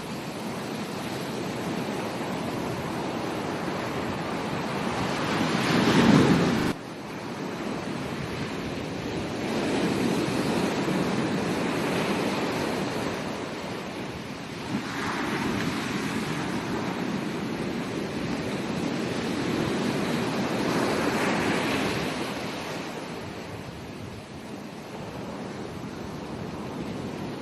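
Ocean waves breaking and washing up a beach: a steady rush that swells in repeated surges. The loudest surge comes about six seconds in and cuts off suddenly.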